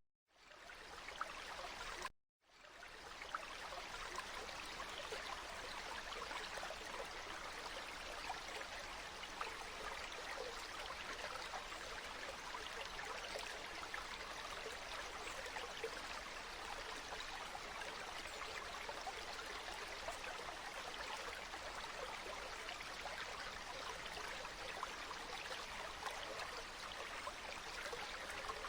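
Water flowing in a stream, a steady rushing and trickling. It fades in at the start, cuts out briefly about two seconds in, then fades back up and runs on evenly.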